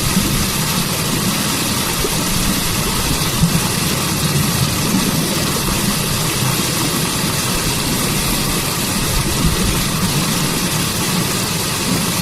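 Waterfall pouring into a stream: a steady, unbroken rush of falling water with a strong low rumble beneath the hiss.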